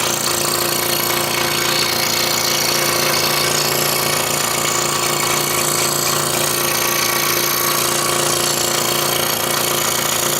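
Scroll saw running steadily, its reciprocating blade cutting a curving line through a wooden jigsaw puzzle.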